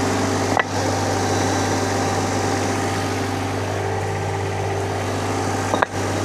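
Vmeng VM1000 mini skid steer's engine idling steadily, with two brief dropouts in the sound, one about half a second in and one near the end.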